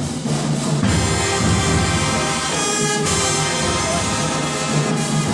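Brass band playing sustained chords over steady low bass notes, with changes of chord about a second in and again about three seconds in.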